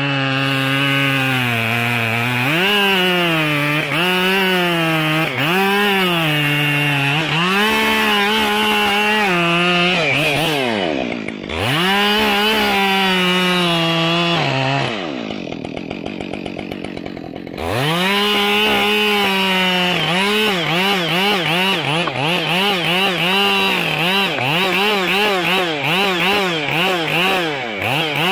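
Two-stroke chainsaw cutting through a tree section, the engine pitch sagging and recovering again and again under load. About midway it drops to idle for a couple of seconds, then revs back in, pulsing about twice a second near the end.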